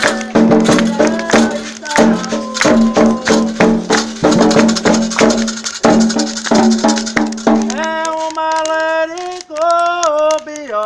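Candomblé ritual music: rattles and percussion shaken and struck in a fast, steady rhythm under sung chanting. About eight seconds in the percussion drops away and a single voice carries on singing held notes that step in pitch.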